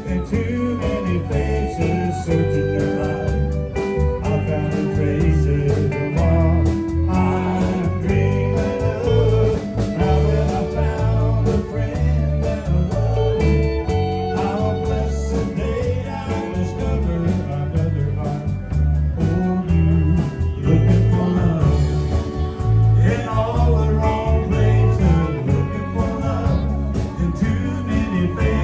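Live country band with electric lead guitar, fiddle, drums, rhythm guitar and bass playing an instrumental break over a steady beat.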